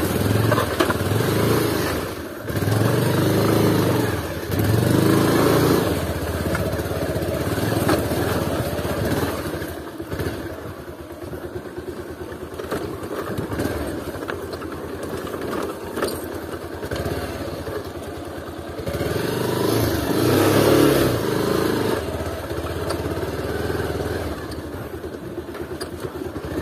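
Bajaj Pulsar 220F's single-cylinder engine pulling the bike over a rutted, muddy dirt track. The throttle is opened in swells three times in the first six seconds and again about twenty seconds in, with the engine running low and quieter between.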